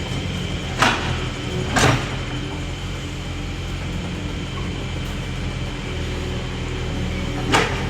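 Heavy diesel construction machine engine running steadily, with three short, sharp metallic knocks about one second, two seconds and seven and a half seconds in.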